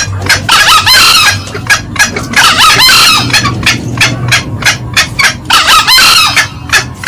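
Male and female green junglefowl calling loudly: a rapid run of sharp clucks broken by three bursts of cackling, about one, three and six seconds in.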